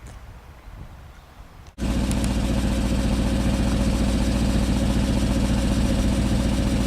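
BMW 740i engine idling steadily through de-cat pipes, an exhaust with the catalytic converters removed. It cuts in abruptly about two seconds in, after a faint low rumble, and then holds a loud, even idle.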